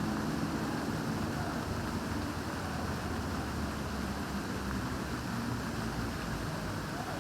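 Fountain water splashing steadily, over the low background hum of a busy town square.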